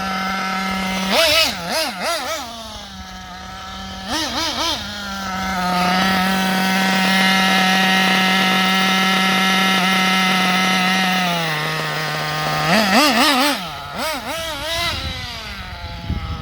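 Kyosho MP10 RC buggy's .21 nitro two-stroke engine running at idle and being blipped: several short revs that rise and fall, a steady held stretch in the middle, and the idle dropping to a lower note about eleven seconds in. The engine is being tuned from its break-in setting toward a steady idle.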